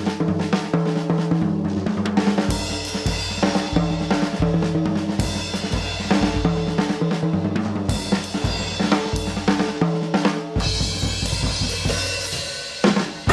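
Jazz drum kit played solo in busy fills across snare, bass drum, toms and cymbals, with rimshots. The rest of the band comes back in right at the end.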